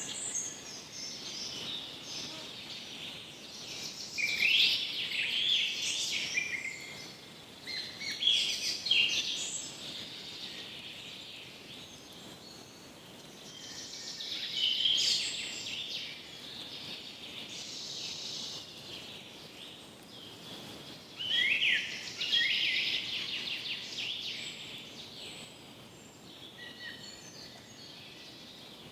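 Several birds calling and singing in a forest, in bursts of chirps and trills every few seconds over a faint steady background hiss.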